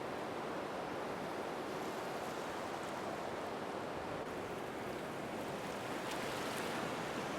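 Sea surf: a steady, even rush of waves washing in.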